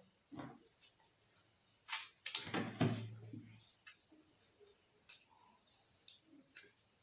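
A cricket trilling steadily at a high pitch, with a few sharp clicks and knocks about two to three seconds in.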